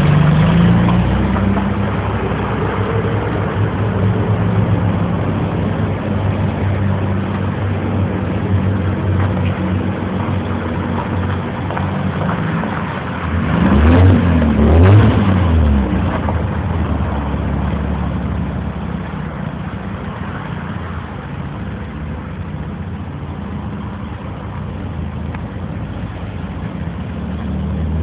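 Chevrolet Suprema 3.0's straight-six engine running steadily, revved twice in quick succession about halfway through, the pitch rising and falling each time.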